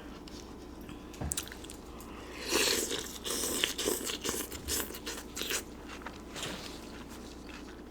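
Close-up eating sounds: a crunchy bite followed by several seconds of crunchy chewing, loudest about two and a half seconds in.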